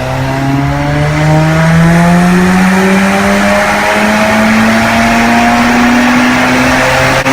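Car engine under hard acceleration in one long pull, its pitch rising steadily as the revs climb, then dropping off abruptly at the very end.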